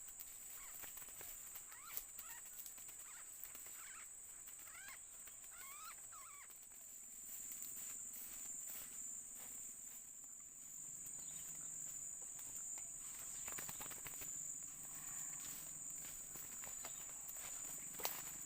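Insects droning steadily at a high pitch outdoors, with a few short, faint rising chirps in the first several seconds.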